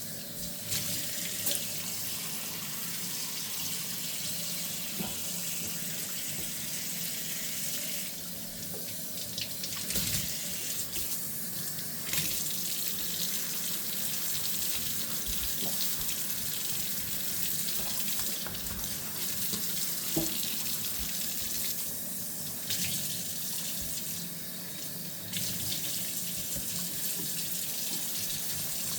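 Kitchen tap running steadily into a sink during hand dishwashing, with scattered light knocks and clinks of dishes. The water's hiss dulls twice for a couple of seconds.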